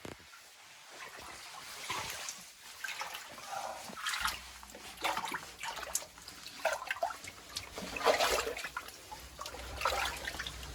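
Shallow water splashing and trickling in a cave passage as someone wades through it, with irregular sloshing steps about every second or two.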